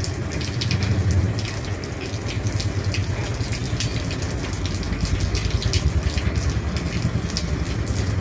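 Heavy rain falling on an old roof: a steady rush of rain dense with sharp drop hits over a low rumble.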